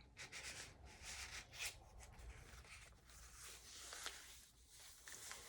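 Faint rustling and rubbing of paper as pages of a handmade journal made from glued magazine pages are handled and turned, with a small tick about four seconds in.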